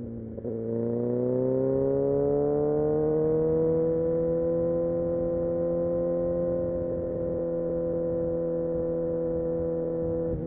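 Kawasaki Ninja ZX-6R inline-four engine under way: a brief break about half a second in, like a gear change, then engine speed climbing for a few seconds and settling into a steady cruise.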